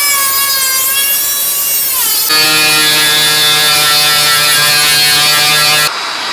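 Power tools running in short edited clips: a whine that wavers in pitch, then an abrupt change about two seconds in to a steady machine whine, which cuts off suddenly near the end.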